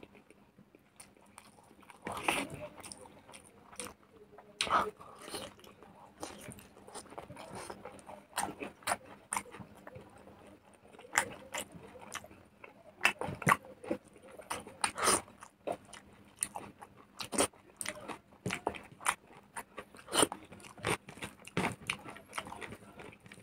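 Close-miked chewing of smoked pork and rice: many short, irregular wet mouth clicks and smacks, a few louder than the rest.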